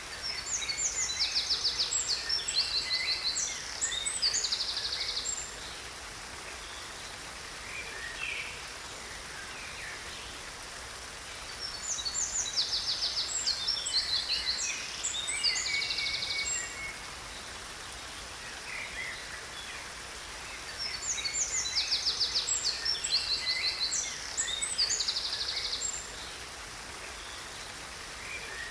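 Songbird singing in three bursts about ten seconds apart, each a near-identical phrase of high chirps and fast trills, over a steady rush of falling water.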